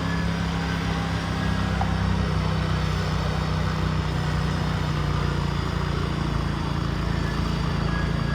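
Garden tractor engine running steadily, slightly louder from about two seconds in.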